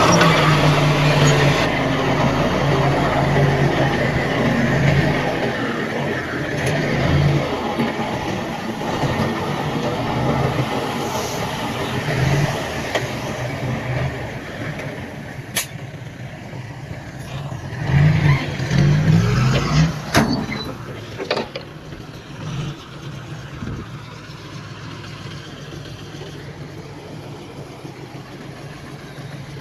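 Heavy diesel earthmoving machinery running and working, its engine note rising and falling with load. It is louder in the first half and surges again about two-thirds in, with a few short sharp sounds, then fades toward the end.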